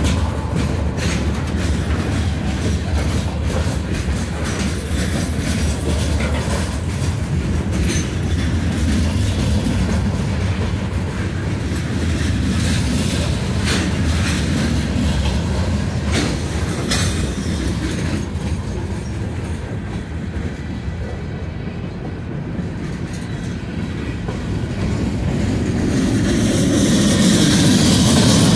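Freight train rolling past, a low rumble with its wheels clicking over rail joints. It eases a little about two-thirds through and builds again near the end.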